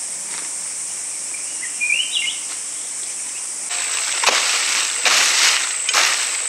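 Steady high-pitched insect drone with a short rising bird chirp about two seconds in. From about four seconds, a series of noisy swishing strokes comes roughly once a second.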